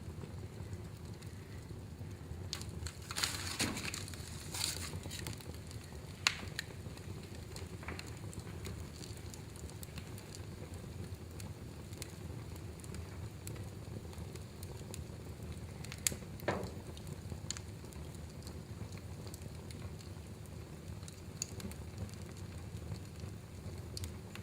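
Wood fire crackling in a fireplace: a steady low rumble of burning with scattered sharp pops and snaps, a few louder ones about three to five seconds in and again around sixteen seconds.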